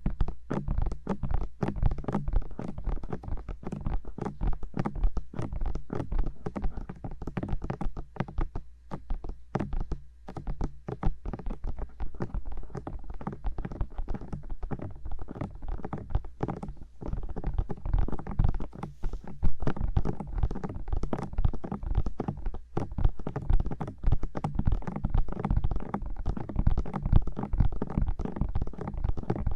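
Bare fingertips tapping rapidly on the silicone ears of a 3Dio binaural microphone: a dense run of quick taps, several a second, each with a deep, muffled thud close to the mic.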